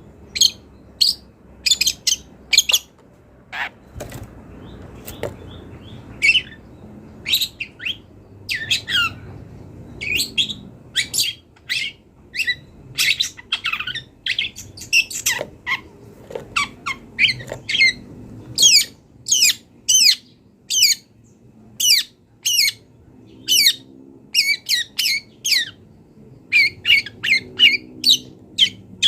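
Long-tailed shrike (cendet) singing hard, a rapid run of short, high, chattering and squawking phrases a second or less apart, full of notes mimicked from other birds.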